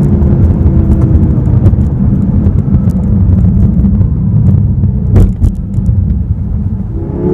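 2015 BMW M6 Gran Coupe's 4.4-litre twin-turbo V8 running under way, a deep steady rumble with road noise. A short sharp click comes about five seconds in, and the engine note starts rising again near the end.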